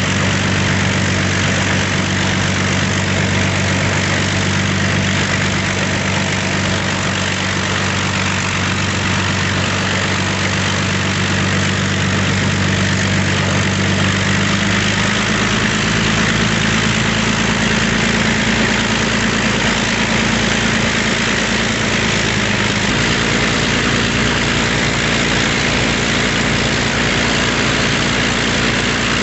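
Avro Lancaster's Rolls-Royce Merlin V12 piston engines running during a ground engine run, a loud steady drone. The engine note shifts upward about halfway through and changes again about three-quarters of the way through as the engines' speed changes.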